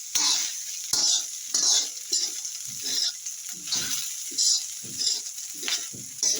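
Fried rice with vegetables being stirred in a hot pan: a spatula scrapes and tosses it about twice a second over a steady sizzle. There are sharp metallic clinks near the start and about a second in.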